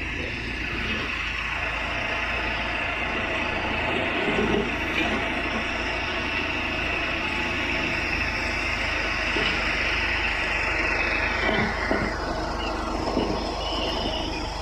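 Backhoe engine running hard with a steady high whine over its drone, and a few clunks from the machine. About twelve seconds in, the high whine slides down in pitch.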